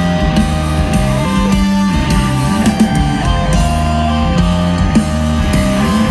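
Live heavy rock band playing loud: distorted electric guitars holding chords over bass and a drum kit.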